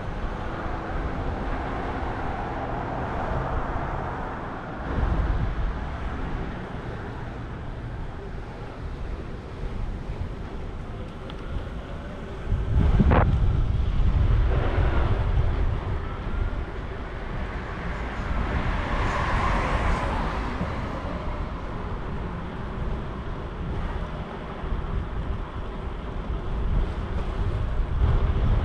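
Wind rushing over a bicycle-mounted microphone while riding, with city street traffic going by. About halfway through, a louder low rumble swells for a few seconds, and a few seconds later a rising hiss passes.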